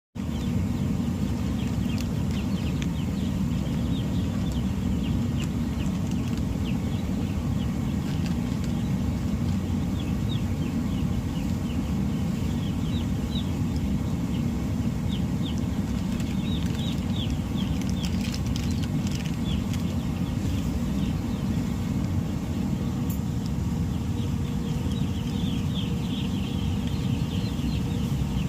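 Broiler chickens peeping: many short, high chirps that fall in pitch, scattered throughout and crowding together near the end, over a steady low rumble.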